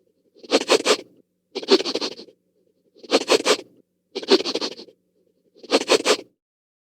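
Scratching sound effect: five rough scratching strokes, each a little under a second long, repeating about every second and a quarter with silent gaps between them.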